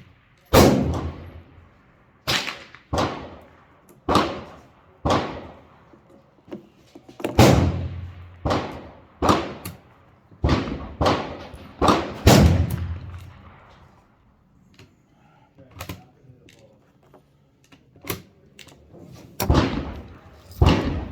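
Semi-automatic rifle fire from a PSA M4-clone AR-15 in 5.56 mm: about a dozen single shots at uneven intervals of roughly a second, each trailing a ringing echo. Fainter, more scattered shots follow in the later part.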